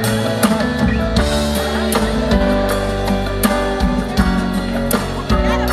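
Live band playing an instrumental passage, with guitar and drum kit keeping a steady beat between sung lines.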